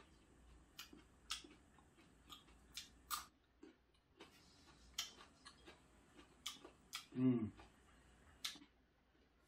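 Crisp, irregular crunches of a raw ginseng root being bitten and chewed. A short hum from the eater about seven seconds in is the loudest sound.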